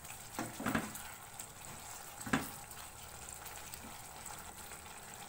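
Chicken karahi with mashed tomatoes sizzling in oil in a karahi (wok) on high flame as it is fried down (bhuna). A spoon scrapes and knocks against the pan a few times in the first half.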